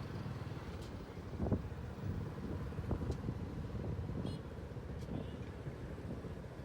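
Motorcycle engine running steadily under way, with wind buffeting the microphone and brief faint voices.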